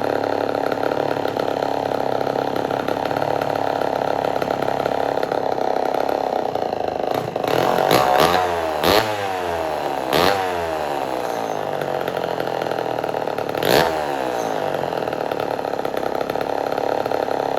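Homelite Super XL chainsaw's two-stroke engine idling steadily, then revved up and let fall back about four times in the second half. It is running well on a carburetor whose idle and low-speed screws have just been adjusted.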